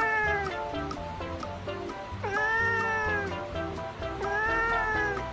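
A domestic cat meowing in long drawn-out calls that rise and fall in pitch: one ending about half a second in, then two more of about a second each. Background music plays throughout.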